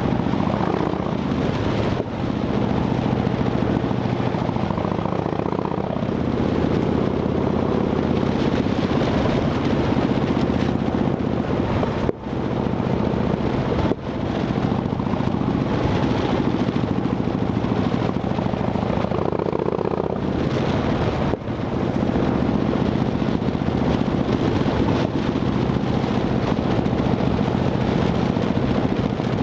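Harley-Davidson Dyna Fat Bob V-twin running through Vance & Hines Shortshots exhaust with quiet baffles, a steady exhaust note broken by a few brief dips in loudness.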